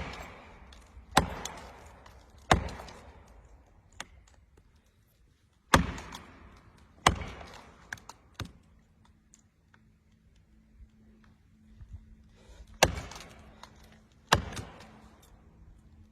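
Heavy chopping blows into a tree's wood, seven in all at uneven intervals, each a sharp strike followed by a short ringing tail.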